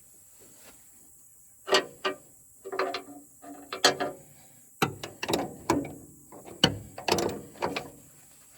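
A series of irregular sharp mechanical clicks and clanks, about a dozen over six seconds, starting about two seconds in.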